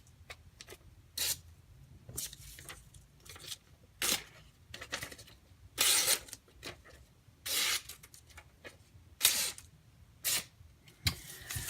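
A run of short hissing scrapes from a D2 steel knife, about eight at uneven intervals of a second or two.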